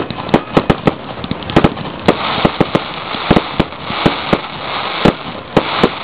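Fireworks going off: a rapid, irregular string of sharp bangs and pops over a steady hiss of noise, which grows denser about two seconds in.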